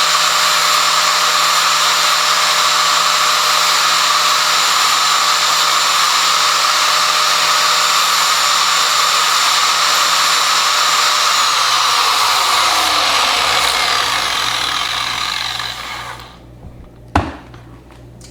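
Power sander with an 80-grit flap disc grinding the corners of a plastic GoPro mount, running steadily. About eleven seconds in it is switched off, and the motor winds down, falling in pitch and fading over a few seconds. A single sharp knock follows near the end.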